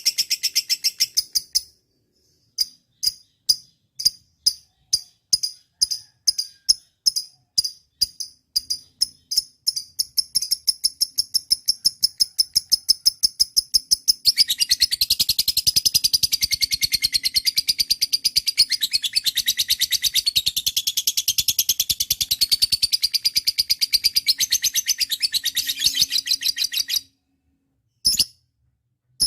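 Lovebird calling: a series of sharp, high chirps, a couple a second and then faster, breaks about halfway into a long, continuous rapid chatter. The chatter cuts off suddenly near the end, and a single short call follows.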